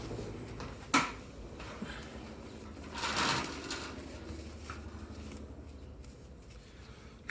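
Hand tools and parts being handled on a workbench: a sharp click about a second in, then a short scraping rustle around three seconds, over a low steady hum.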